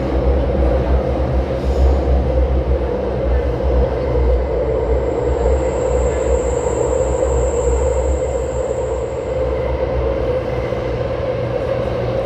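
Taipei Metro train running along the line: a steady, loud rumble of the car in motion, with a thin high whine that comes in about four seconds in and fades out a few seconds later.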